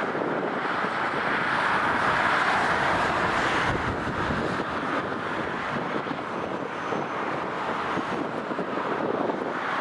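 Jet engine noise of an Airbus A320neo landing, a steady rushing that swells about two seconds in and then eases a little. Wind buffets the microphone.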